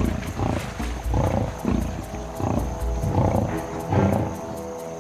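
Lions growling in a series of short, rough growls as they attack a buffalo, over background music.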